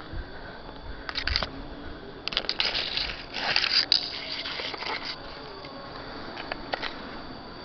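Rustling and crackling: a few quick crackles about a second in, then a denser stretch of rustling and scraping from about two to five seconds in.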